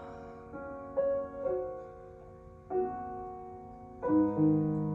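Slow ballad piano accompaniment between sung lines: four soft chords struck about a second apart and left to ring and fade.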